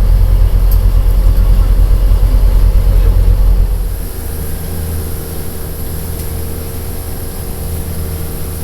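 Pleasure boat's engine running under way, a loud low rumble that drops about four seconds in to a quieter, steadier hum.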